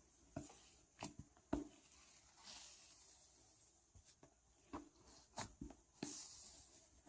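Cloud slime being stretched and squeezed by hand: faint crackling with scattered small pops and clicks, and soft rustly tearing about two and a half seconds in and again near the end.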